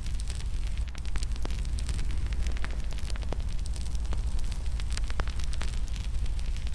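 Fire in a fireplace crackling, with sharp irregular pops and snaps over a steady low rumble.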